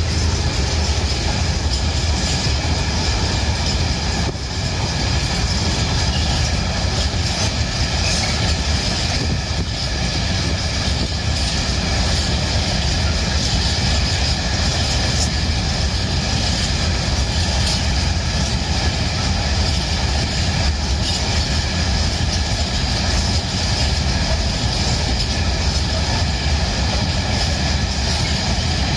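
Freight train of covered hopper wagons rolling past at close range: a steady, loud noise of steel wheels running on the rails, with faint high ringing tones over it.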